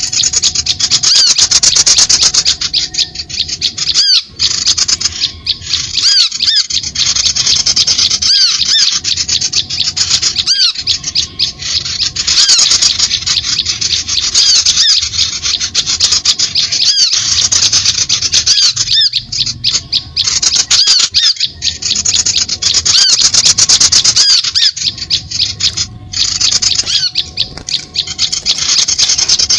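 Bird-call lure recording: loud, dense chattering and squawking of birds, many short arched notes and rapid ticks a second. The stream has brief gaps every few seconds.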